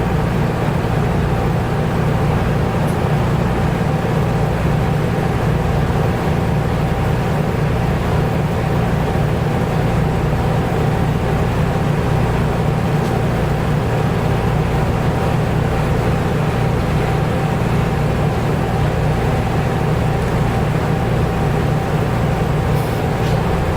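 Nissan Diesel U-UA440LSN city bus's diesel engine and drivetrain heard from inside the passenger cabin, running steadily under way at an even speed with a thin, constant high tone over the low rumble.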